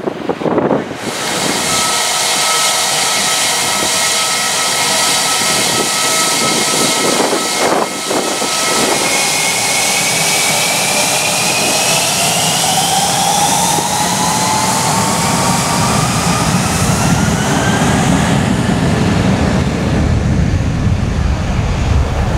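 Twin-jet airliner's engines close by: a steady jet noise with a whine, then a whine rising in pitch over several seconds, and a deepening rumble building near the end.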